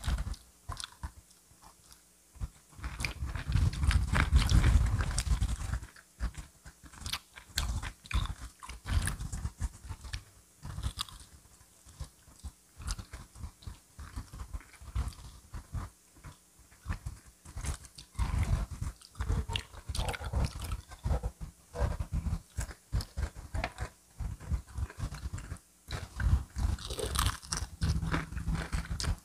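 Crispy fried chicken being bitten and chewed close to the microphone: irregular crunches and crackles of the fried coating, with wet chewing between bites and a louder low rumble about four to five seconds in.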